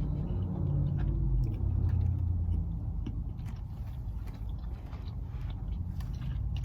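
Low rumble of a vehicle heard from inside a closed car cabin, louder for the first two and a half seconds and then easing off, with faint small clicks over it.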